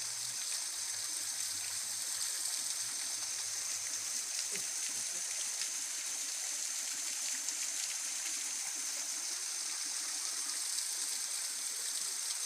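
Tropical forest waterfall, water rushing and splashing steadily in an even hiss, with a thin steady high tone over it.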